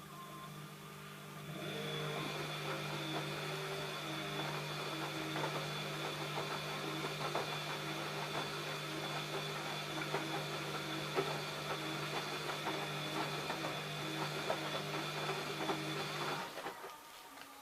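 ELIN A 100 E washing machine running: a steady hum, joined about a second and a half in by a louder mechanical running sound with a repeating pattern and small clicks. Both stop together near the end.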